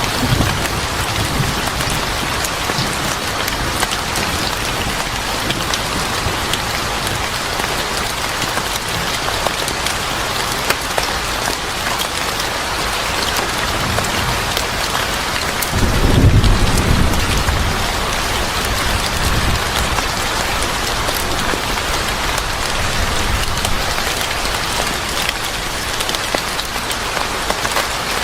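Steady heavy rain falling on a surface, with a low rumble of thunder a little past halfway that swells and fades over about two seconds.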